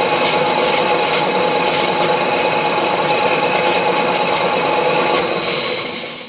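A metalworking machine tool running and cutting steadily, with several constant high-pitched whines over a harsh grinding noise and occasional sharp ticks. It fades away over about the last second.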